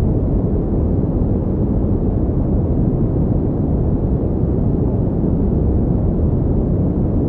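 Steady synthetic pink noise: an even, unchanging rushing rumble, heavier in the bass than hiss.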